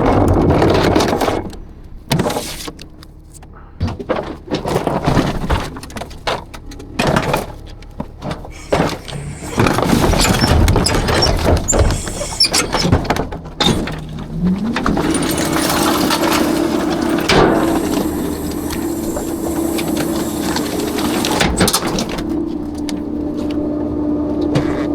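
Rear-loader garbage truck at work: trash and metal clattering and banging in irregular knocks. About halfway through, the truck's engine and hydraulics rise in pitch to a steady whine that holds as the packer or dumpster lift runs.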